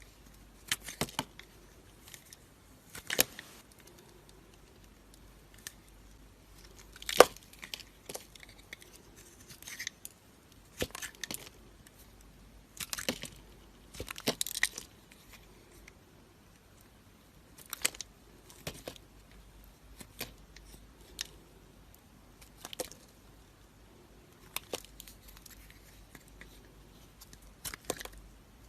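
Knife cutting dry soap: irregular crisp crackles and short scraping strokes with quiet gaps between them, the sharpest crack about seven seconds in.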